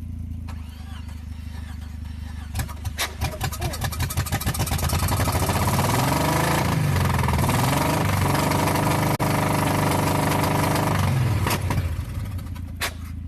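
A vehicle engine cranks with a quickening chug, catches and runs. Its pitch rises and falls as it is revved, then it cuts out near the end.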